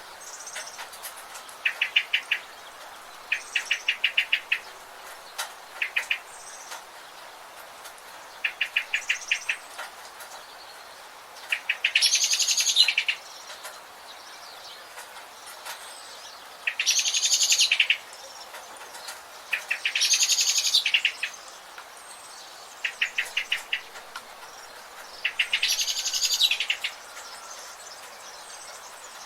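Forest birds calling. Short, rapid trilled or rattling calls come every few seconds, and a louder, buzzier phrase of about a second is heard four times. All of it runs over a steady background hiss.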